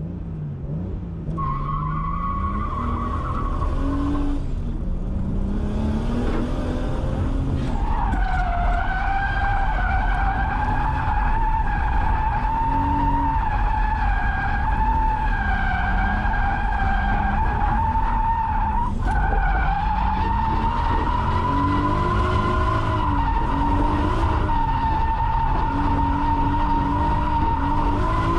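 Drift car sliding with its tyres squealing in a long, high screech that holds for most of the time and breaks off briefly a few times, while the engine revs rise and fall underneath.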